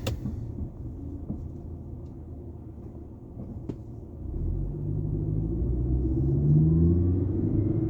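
Car engine and road rumble heard from inside the cabin while driving; about halfway through the engine pitch climbs and the sound gets louder as the car accelerates.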